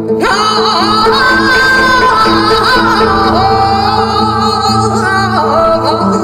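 Music: a singer enters sharply and holds long, wavering notes in Korean folk-song style over a steady instrumental accompaniment.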